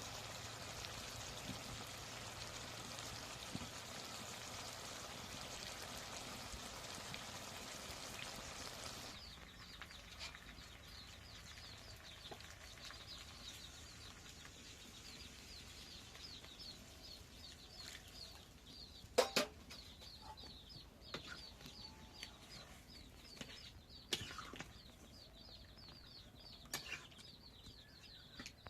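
A steady even hiss that stops abruptly about nine seconds in. Then rapid high bird chirps, several a second, with poultry clucking and a few sharp knocks.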